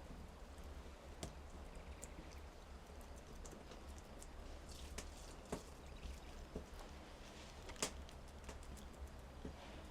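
Scattered, irregular light clicks and taps over a low steady hum, one sharper click near the end.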